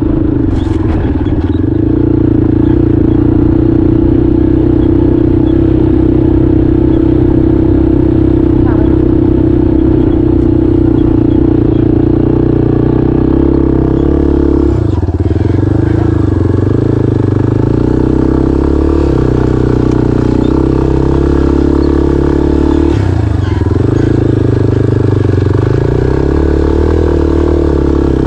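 Single-cylinder dual-sport motorcycle engine running under steady throttle while riding on a sand track. The engine note dips briefly and picks back up twice, about halfway through and again later, as the throttle is eased and reapplied.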